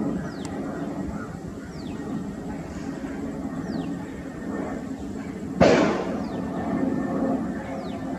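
Steady low rumble of a distant jet airliner's engines, with short falling bird whistles about once a second. A single sharp bang comes about five and a half seconds in and fades quickly.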